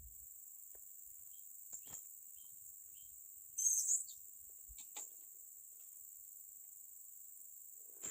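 Steady high-pitched insect drone of crickets or cicadas, with a few faint short bird chirps in the first half and one brief, louder, high-pitched call about halfway through. Faint scattered clicks.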